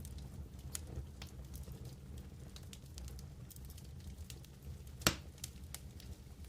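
Wood campfire burning with a steady low rumble of flames and scattered small crackles, and one louder pop about five seconds in.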